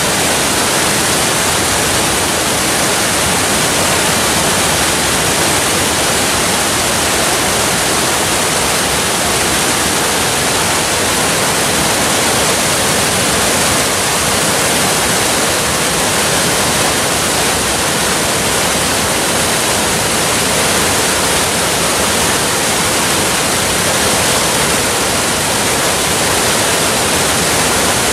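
Waterfall: an unbroken, even rush of falling water with no change in level.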